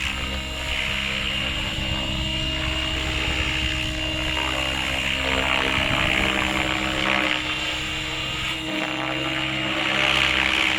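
Align 700-class RC helicopter in flight: a steady rotor sound with a high whine over it, swelling a little in loudness around the middle and again near the end.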